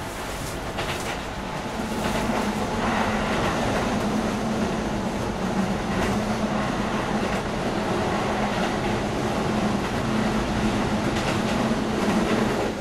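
Shin-Keisei 8900-series electric train running along the line, heard from inside the car: a steady rumble of wheels on rail with a steady low hum and a few clacks, getting louder about two seconds in.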